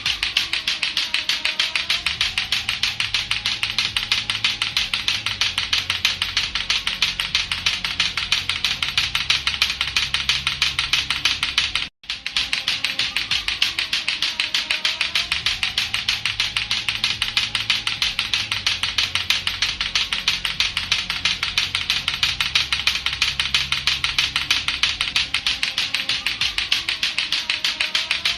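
Latto-latto clacker toy, two hard plastic balls on a string knocking together in a fast, steady, unbroken run of clacks. The clacking cuts out for an instant about twelve seconds in, then carries on.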